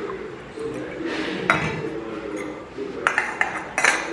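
Metal and glass kitchenware being handled while a moka pot coffee is prepared. A short rushing noise comes about a second in, then a quick run of sharp clinks and taps in the second half.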